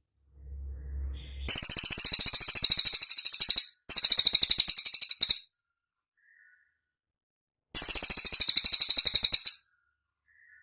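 Cililin bird singing: three bursts of very rapid, very high-pitched trilling, each about one and a half to two seconds long, with a pause before the last. A faint low rumble comes in the first second.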